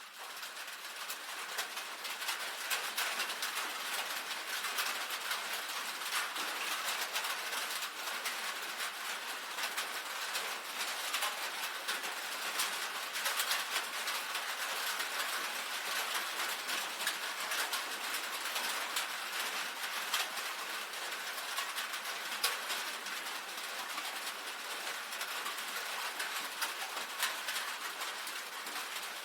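Rain pattering on a tin roof: a dense, steady spatter of small drop ticks on sheet metal, fading in at the start and then holding even.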